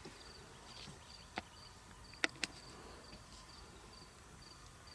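An insect chirping steadily in short, high, evenly spaced pulses, about three a second, with three sharp clicks in the middle, the last two close together.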